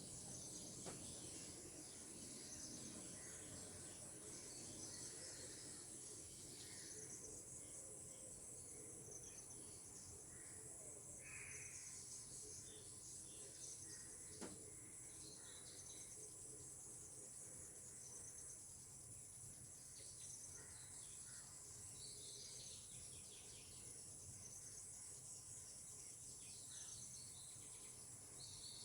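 Faint, steady high-pitched insect chorus, with scattered short bird chirps and one sharp click about halfway through.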